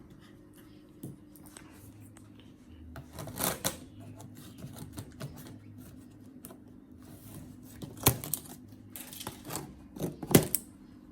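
Irregular knocks, scrapes and rustles as a cardboard air-conditioner box is handled and opened, with a few sharper knocks, the loudest near the end.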